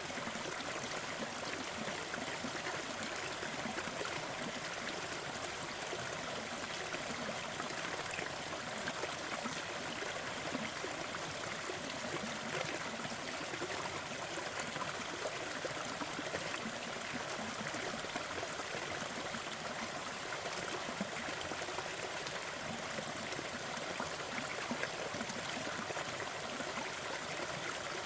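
Waterfall: a steady rush of falling water, bright and hissing with little deep rumble, flecked with fine splashing and trickling.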